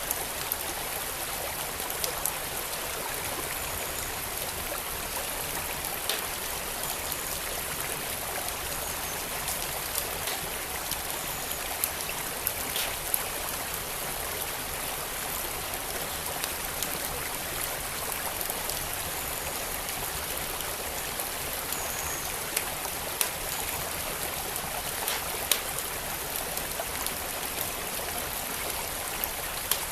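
Steady rush of a flowing creek, with a wood fire crackling over it in scattered, irregular sharp pops.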